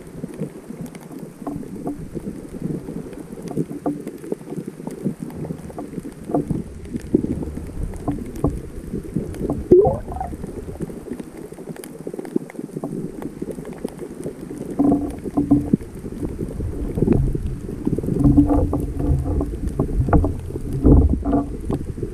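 The sea heard underwater through a GoPro's waterproof housing: a muffled, low churning of water with many scattered clicks and knocks, and heavier surges about two-thirds of the way through and near the end.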